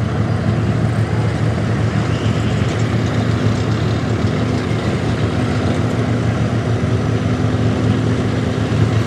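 A large engine running steadily at a constant speed, giving a low, even hum.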